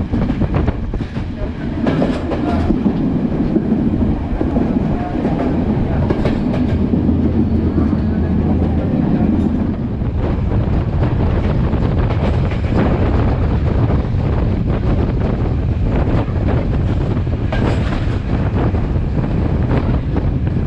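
Passenger train carriage running along the line, a steady rumble with the wheels clacking over the rail joints at irregular intervals, heard from an open window of the carriage.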